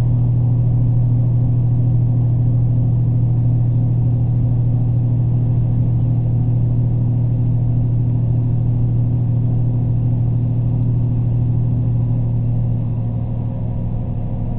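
Train running, heard from inside the passenger car: a steady low droning hum with rumbling running noise, easing off slightly near the end.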